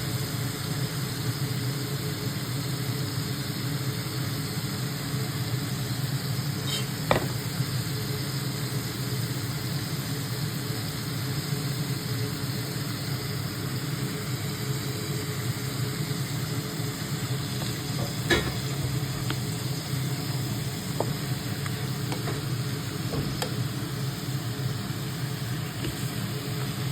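Squid frying in a pan, a steady sizzle with a low hum underneath. Sharp clicks sound now and then, two clearer ones about 7 and 18 seconds in.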